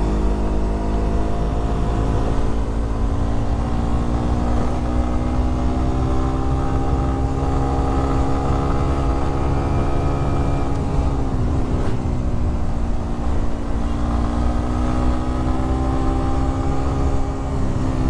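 Suzuki GSX Bandit 150's single-cylinder engine running while riding. Its pitch climbs slowly, falls about eleven seconds in, then climbs again, with wind rumble on the microphone underneath.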